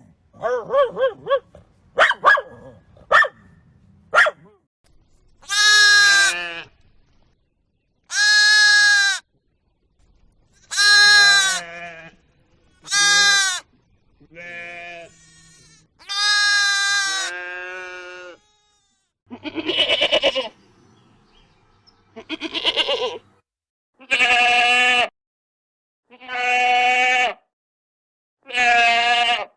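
Goats and sheep bleating: about a dozen separate bleats, each about a second long, with gaps between them. A few short, sharp calls come first, in the opening four seconds.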